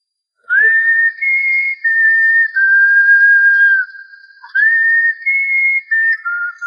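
A whistled melody of slow, held notes, each phrase sliding up into its first note. A short break comes about four seconds in, then a second phrase starts.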